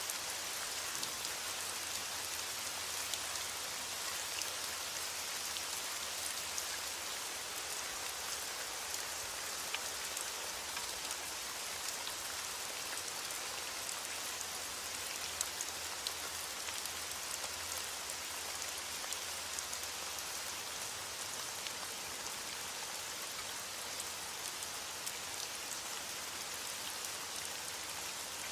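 Heavy rain falling steadily on window glass, an even hiss with scattered faint sharp ticks.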